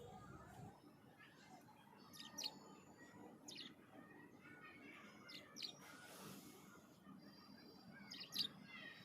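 Budgerigar chirping faintly: four short, sharp high chirps a second or more apart, with thin high whistled notes between them.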